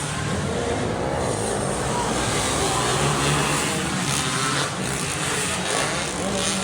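Motocross dirt bike engine running steadily under a dense noise haze.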